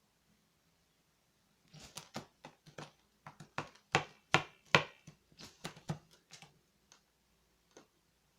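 Magpie striking with its beak: a quick, irregular run of sharp knocks starting about a second and a half in, loudest around the fourth and fifth seconds, then thinning to a few single knocks. These are the magpie's hammering blows to the head of its spider 'prey'.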